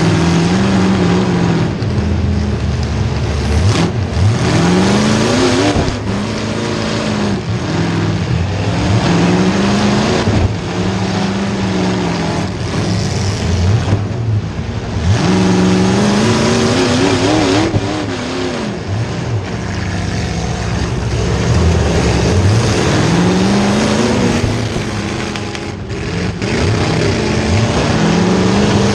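Demolition derby car's small-block Chevy V8 revving up and dropping back again and again, every two or three seconds. A sharp bang comes about four seconds in and another near the end.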